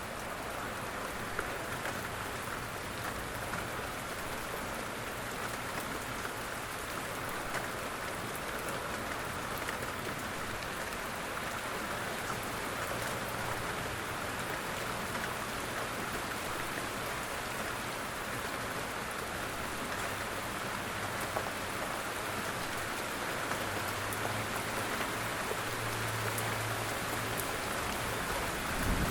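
Quiet, steady rain falling, with scattered light ticks of individual drops.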